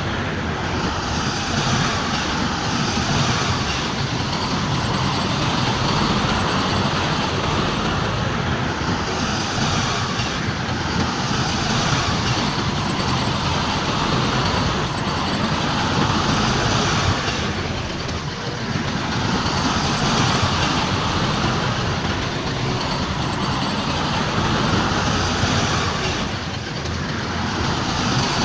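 Heavy earthmoving machinery, a bulldozer and dump trucks, running continuously with diesel engine noise that swells and eases every few seconds.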